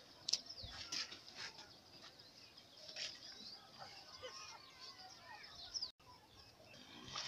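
Wild birds chirping and calling with many short, quick rising and falling notes, over faint outdoor background noise, with a few sharp clicks. The sound cuts out for an instant about six seconds in.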